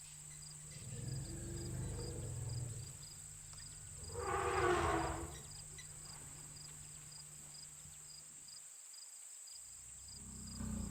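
Crickets and other night insects trilling steadily in a high, even pulse over a low steady hum that cuts off suddenly near the end. About four seconds in, a louder sound of about a second and a half rises over them.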